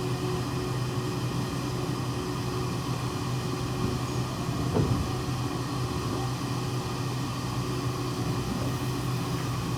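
Inside a JR West 117 series train car: a steady running hum with an even background noise and a brief knock about five seconds in.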